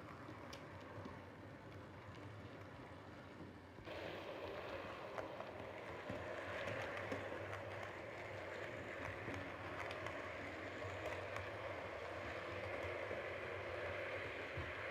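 Model train running on its track: the steady rumble of wheels and motor, with faint clicks. It gets suddenly louder about four seconds in.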